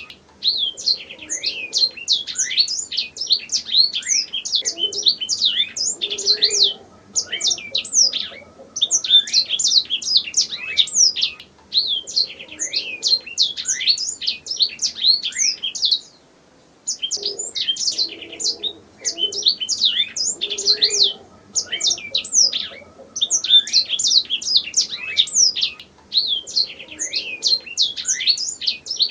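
Domestic canary singing long phrases of rapid high trills and chirps, broken by brief pauses every few seconds.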